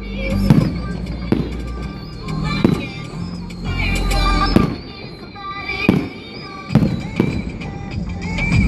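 Fireworks shells bursting, about six sharp bangs roughly a second apart, over music.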